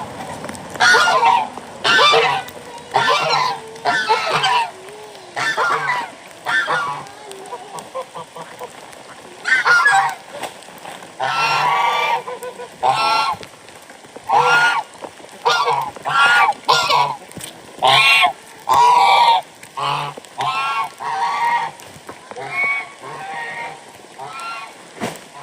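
Farmyard waterfowl honking: a long, irregular series of loud, short, harsh calls.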